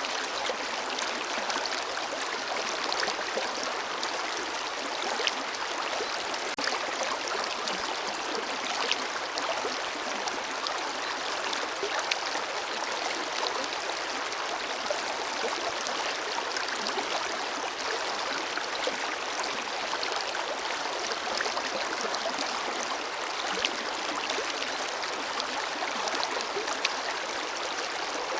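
Forest river flowing steadily over rocks, a continuous rush of water with small splashes and trickles ticking through it.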